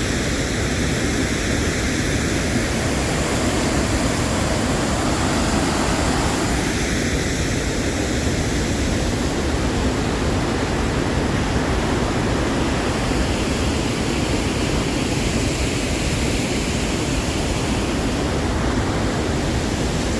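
Waterfall's steady rush of falling water, loud and unchanging.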